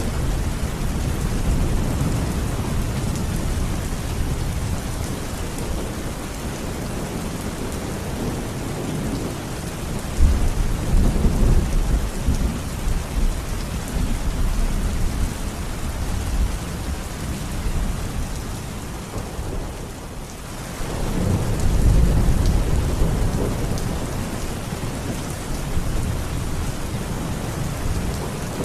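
Steady heavy rain falling, with deep rolling rumbles of thunder swelling up about ten seconds in and again after about twenty seconds.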